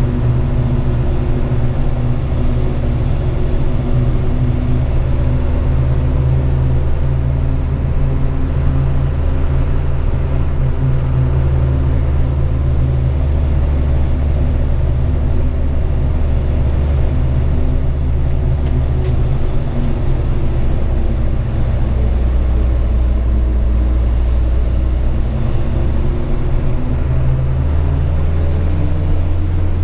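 Hino 500 FM 260 JD truck's six-cylinder diesel engine running while the truck drives, heard from inside the cab: a steady low drone that dips slightly in pitch past the middle and climbs again near the end.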